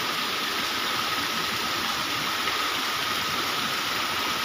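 Heavy rain and wind in a steady, even hiss, with a faint steady high tone underneath.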